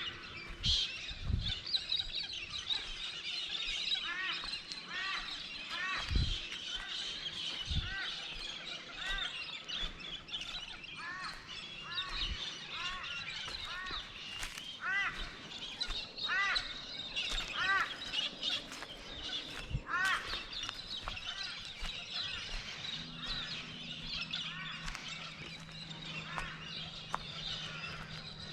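Dawn chorus of many birds calling together, with one bird repeating a rising-and-falling call over and over. A low steady hum joins near the end.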